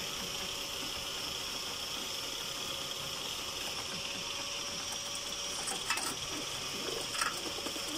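Steady outdoor hiss and hum, with a few light taps near the end from pigeons pecking grain on the balcony ledge.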